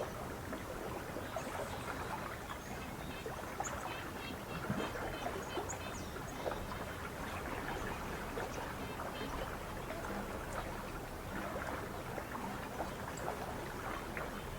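Lake water lapping and splashing against the shore in small irregular slaps, with short high chirps of small birds now and then, most near the start and around the middle.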